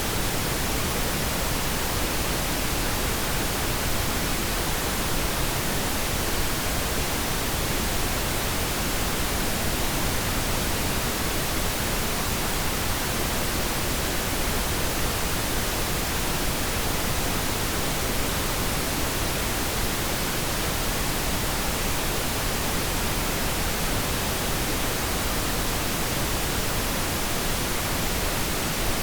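Steady pink noise: an even, unchanging hiss spread across all pitches, meant as a masking sound for tinnitus.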